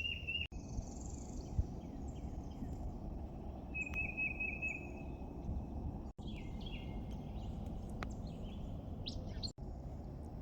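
Wild birds chirping and calling over a steady low background rumble, with a short trilled call about four seconds in. The sound cuts out sharply for an instant three times.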